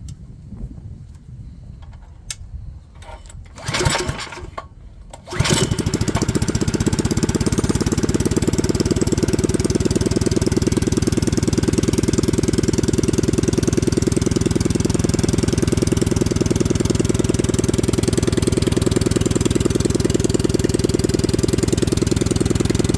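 Predator 212cc Hemi single-cylinder engine with a straight-pipe exhaust being pull-started: a short burst about four seconds in, then it catches just after five seconds and runs steadily.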